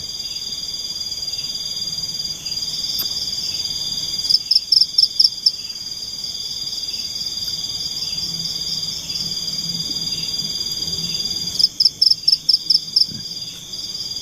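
Tropical forest insect chorus: a steady high-pitched trill, broken twice by a loud burst of about six quick pulsed calls.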